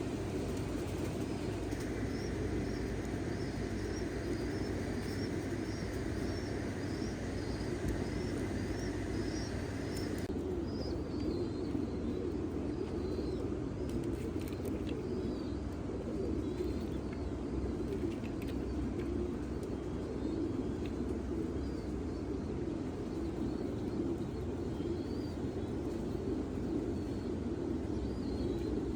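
A flock of pigeons cooing continuously, with rows of small high-pitched chirps over the top.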